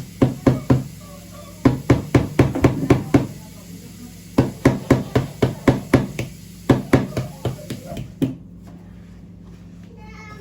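Quick runs of sharp tapping and chipping strikes, a digging tool hacking at the hard shell of a toy dig-kit volcano, in four bursts of several knocks each with short pauses between.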